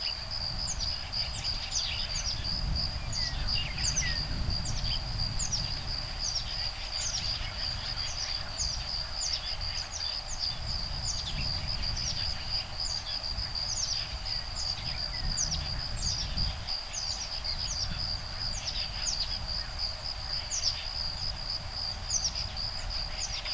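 Woodpeckers calling back and forth in short, repeated downward-sliding chirps, about one and a half a second, over a steady high-pitched insect trill and a low rumble of breeze.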